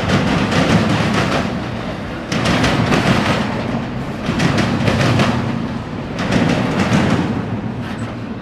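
Intermodal freight train cars rolling past over a steady rumble, their wheels clacking over rail joints in groups about every two seconds as each car's trucks pass.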